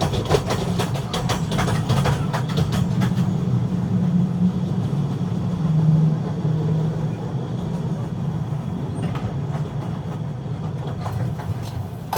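Train passing: rapid clicks of wheels over rail joints for about the first three seconds, then a steady low rumble that slowly eases off.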